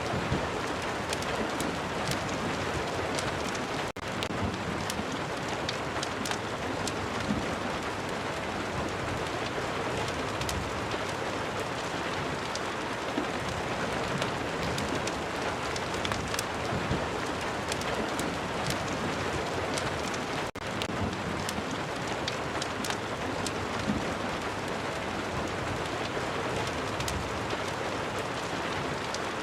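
Steady rain falling, a dense even hiss sprinkled with many small sharp crackles and ticks, mixed with a crackling fireplace. The sound dips very briefly twice, about four seconds in and about twenty seconds in.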